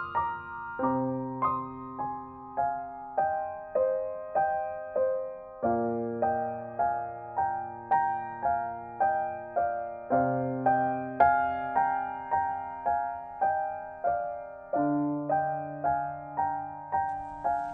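Solo piano background music: a gentle piece of evenly repeated notes, about two a second, over low bass notes that change every four to five seconds.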